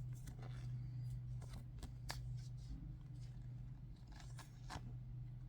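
Trading cards and plastic card sleeves being handled: faint scattered rustles and small clicks, several close together around two seconds in and again near four and a half seconds, over a steady low hum.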